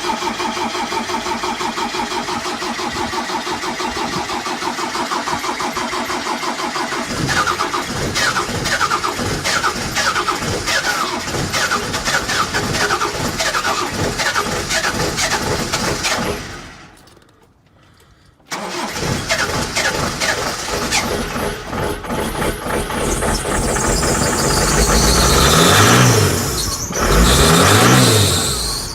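Diesel engine cold-starting: cranking with a rapid, even beat that turns into uneven firing as the engine catches. The sound drops out briefly, then an engine runs and is revved twice near the end, its pitch rising and falling each time.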